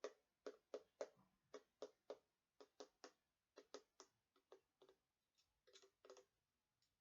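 Fingernails tapping on a hard, box-shaped decorated purse: a run of sharp taps, a few a second, that stops about six seconds in.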